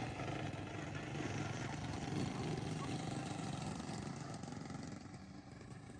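Racing lawn mower engines running loud and steady, dying down over the last second or two.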